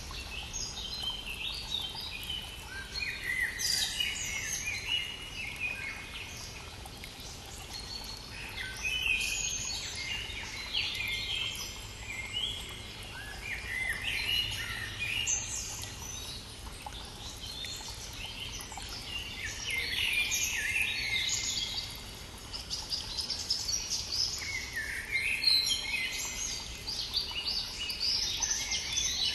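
Spring dawn chorus: several songbirds singing at once, overlapping chirps and trills, over the faint steady rush of a stream.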